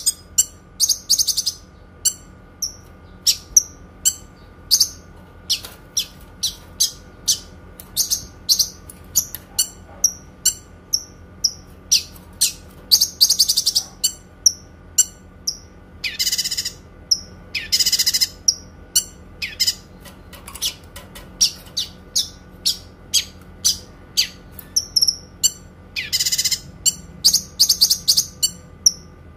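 Kinoi bird singing: a long series of short, sharp, high-pitched notes at about two a second, broken by a few longer trilled bursts of about a second, one near the middle and one near the end.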